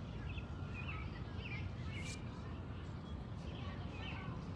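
Small birds chirping in short, repeated calls over a steady low rumble, with a single sharp click about two seconds in.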